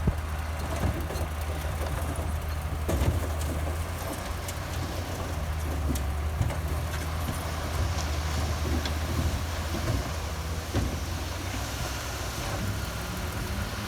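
Komatsu bulldozer's diesel engine running steadily, with a few sharp knocks and clanks spread through it.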